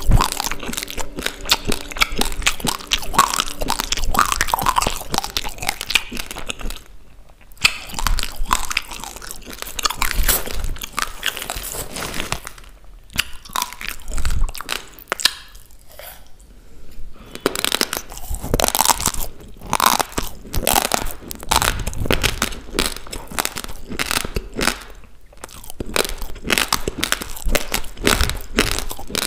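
Close-miked crunching and chewing of uncooked rice grains: many sharp, crackly bites in quick succession, pausing briefly a few times.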